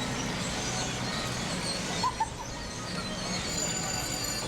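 Outdoor crowd and wind ambience with small birds chirping, broken by two short, sharp calls in quick succession about two seconds in.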